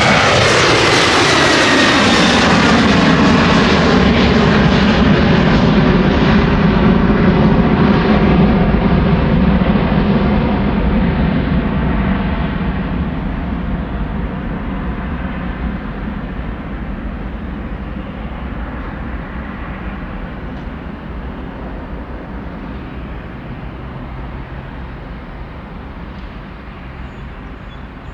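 Jet airliner passing close by: a high engine whine falls in pitch as it goes past, leaving a broad rumble that slowly fades as the aircraft moves away.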